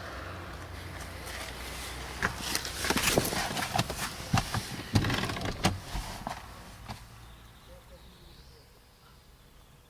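A quick run of sharp clicks and knocks over a low hum, thinning out after about seven seconds.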